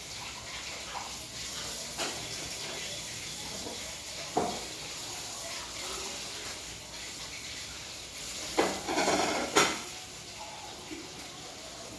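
Dishes and cutlery clinking and knocking while being washed, with a sharp knock about two seconds in, another near four seconds, and a louder clatter near nine seconds, over a steady hiss.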